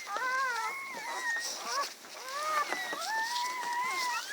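Dog whining in a run of high-pitched, wavering calls, the last held about a second and a half, during whelping.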